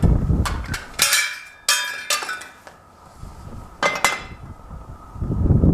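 Several sharp metallic knocks and clinks, about four, the middle ones ringing briefly, as metal parts are handled and struck during work on the tractor's battery bracket.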